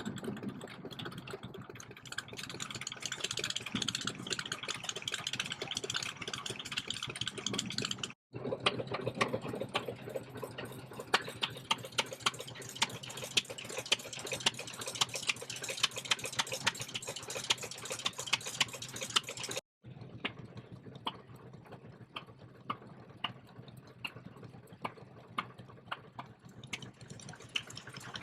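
Vintage stationary engines running, in three short shots split by abrupt cuts about 8 and 20 seconds in. Each has a fast, even run of mechanical clicks and beats over a steady hum, and the sharpest beats come in the middle shot.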